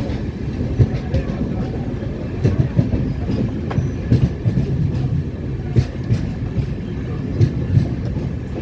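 Moving passenger train: a steady low rumble with irregular knocks from the wheels running over rail joints.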